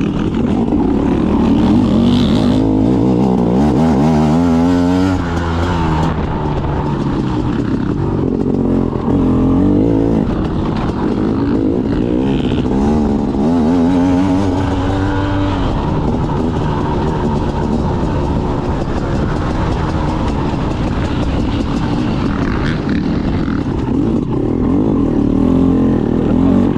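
Off-road motorcycle engine being ridden hard, its pitch repeatedly climbing and dropping as the throttle is opened and closed through jumps and corners.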